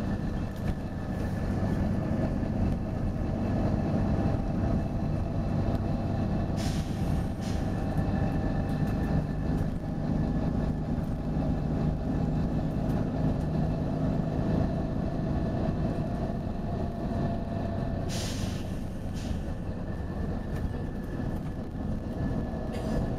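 Volvo B9TL double-decker bus with its 9-litre six-cylinder diesel running steadily, a whine held over the engine note. Two short air hisses from the bus's air system come about seven seconds in and again near eighteen seconds, the second one longer.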